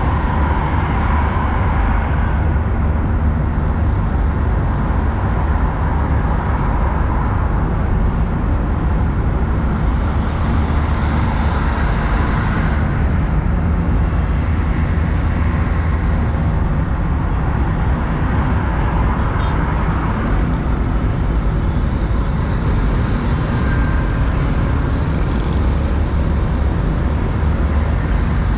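A car being driven at road speed: a steady low rumble of engine and tyres on the road, swelling a few times as the noise rises and falls.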